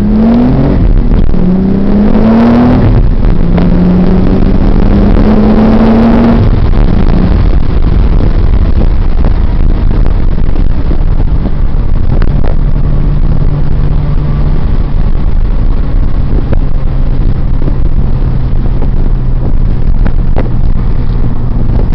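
Nissan 300ZX Twin Turbo's twin-turbo V6 pulling through the gears on low boost: the engine note rises three times, with a short rushing noise at a shift about two and a half seconds in. After about six seconds it settles to a steady cruise with road noise.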